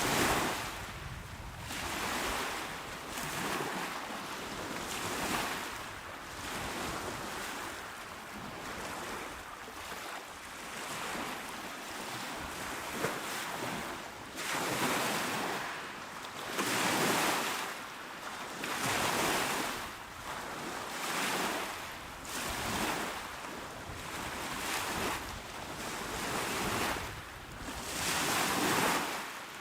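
Small waves breaking and washing onto a shore, a hiss that swells and fades every couple of seconds, with a few stronger breaks in the second half.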